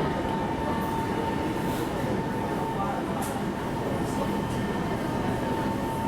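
Inside a Shanghai Metro Line 11 car standing at a station: the steady hum and noise of the train's equipment, with a constant high whine, and faint passenger sounds.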